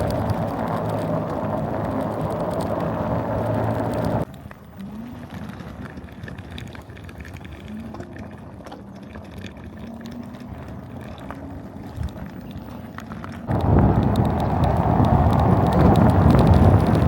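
Small mini bike engine running. About four seconds in the sound drops abruptly to a fainter engine hum that wavers slightly in pitch, and near the end it turns loud again just as suddenly.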